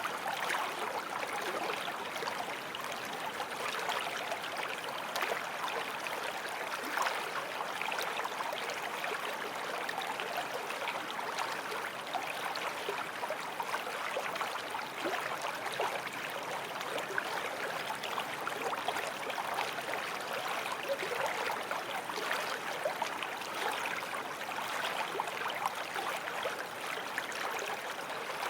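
Small forest stream flowing over stones, a steady babbling and trickling of water.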